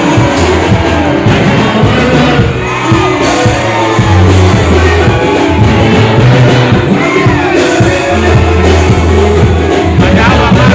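Live band music with a singer over a steady bass line, played loud.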